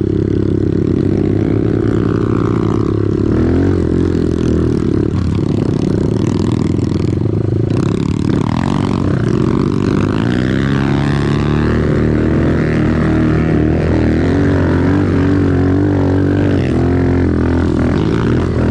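Off-road vehicle engine running continuously under changing throttle, its pitch rising and falling as it is ridden along a trail.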